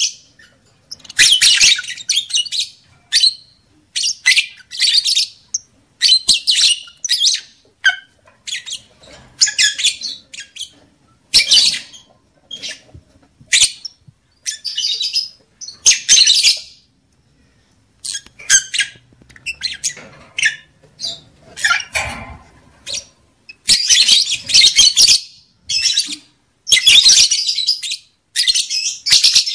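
Lovebirds chirping in shrill, rapid bouts of about half a second to a second, separated by short pauses.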